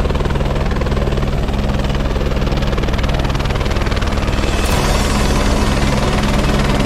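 Helicopter running close by: a steady turbine and engine hum under the fast, even beat of the rotor blades.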